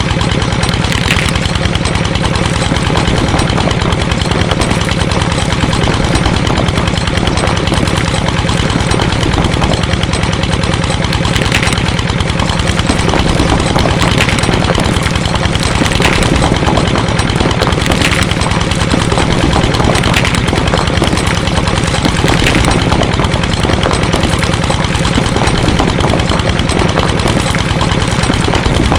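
Small engine of a DIY mini tractor running steadily, with faint light clicks every couple of seconds.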